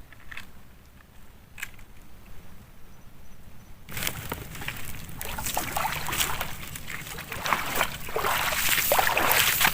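Water sloshing and splashing, starting suddenly about four seconds in and growing louder, with many small crackles in it. Before that there are only a few faint clicks.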